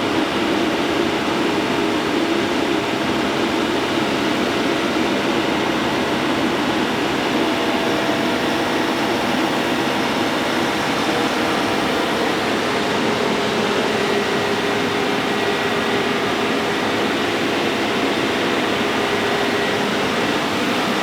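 Diesel engine of a large TYM farm tractor running steadily under load as the tractor is driven up onto a trailer.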